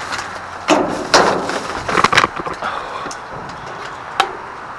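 Rummaging through discarded goods in a dumpster: rustling with a handful of sharp knocks and clatters of items being moved and dropped.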